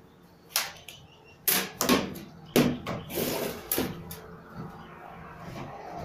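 A run of sharp clicks and knocks, hard objects being handled and set down, with a short rustle of noise about three seconds in.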